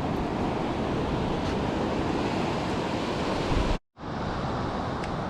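Ocean surf and wind buffeting the microphone as a steady rushing noise, broken by a split-second dropout to silence about four seconds in.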